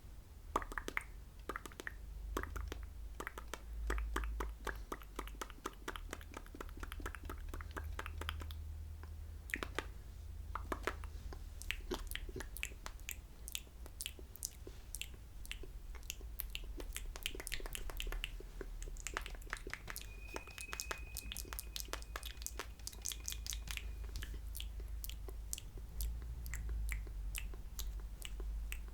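Close-up wet mouth sounds: quick tongue and lip clicks and smacks, many per second, made for ASMR spit painting.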